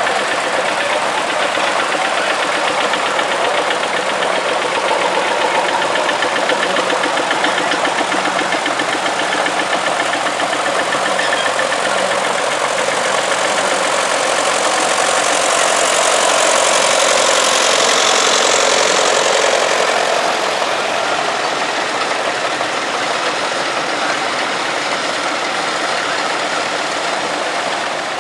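Vintage tractor engines running as tractors drive past in procession, one passing closer and louder about two-thirds of the way through.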